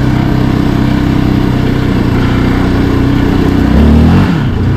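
Yamaha Raptor 700R's single-cylinder four-stroke engine running steadily under way. Near the end the revs climb briefly and get louder, then drop off quickly.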